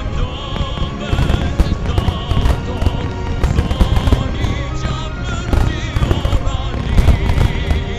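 Wide starmine fireworks: rapid, irregular bangs and crackles of many shells bursting, over music with sustained wavering melody lines.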